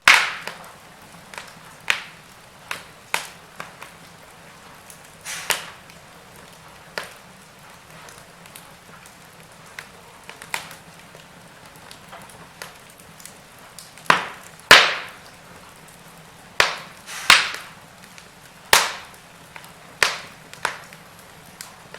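Wood fire crackling in a fireplace: irregular sharp pops and snaps over a faint steady hiss, with louder pops coming closer together in the second half.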